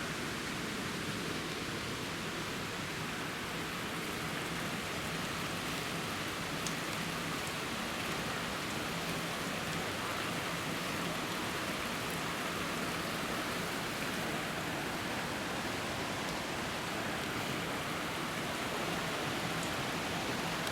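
Steady rushing water, an even hiss that holds without change.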